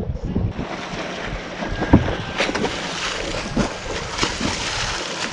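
Lake water splashing and sloshing around a swimmer beside a boat, with wind buffeting the microphone and a sharp thump about two seconds in.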